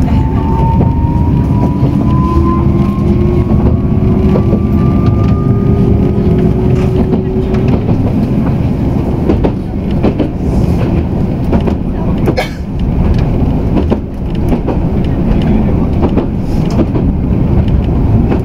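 Inside a Tokyu Setagaya Line car: the traction motor whine rises slowly in pitch over the first several seconds as the train accelerates, over a steady rumble of wheels on rail with occasional sharp clicks.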